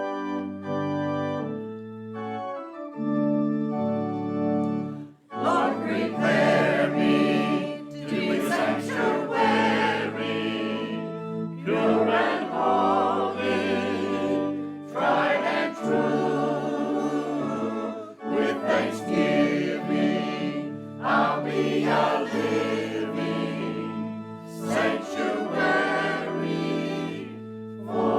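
An organ plays sustained chords, and about five seconds in a group of voices joins, singing a hymn over the organ.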